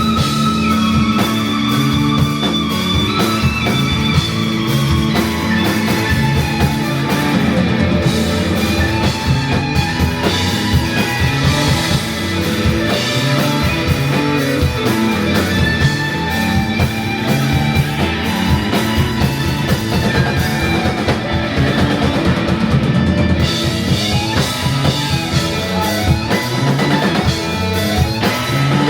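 Psychedelic rock band playing live: electric guitar over bass and drum kit in a dense, continuous passage.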